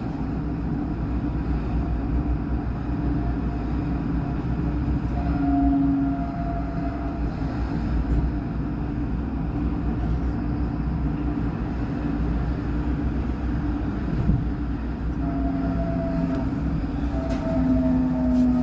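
Alstom NGT8D low-floor tram running steadily along the track: a continuous low rumble of wheels on rail, with brief hum tones from the drive that come and go, most clearly about six seconds in and again near the end.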